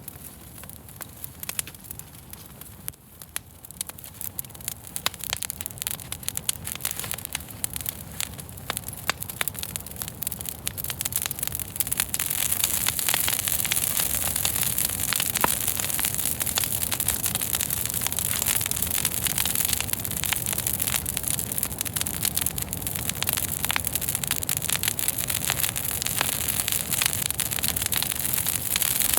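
Wood fire crackling with frequent sharp pops and snaps; about twelve seconds in it grows louder, with a steady hiss under the crackling.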